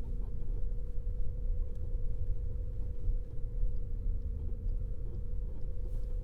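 Car on the move: a steady low rumble of engine and road noise with a thin, constant hum, without change throughout.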